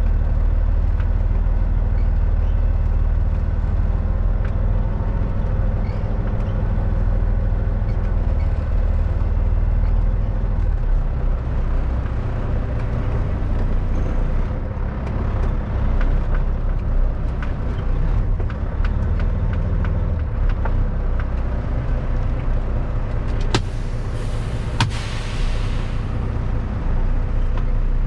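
Kenworth W900 truck's diesel engine running steadily under way. About three-quarters of the way through there are two sharp clicks and a brief hiss of air.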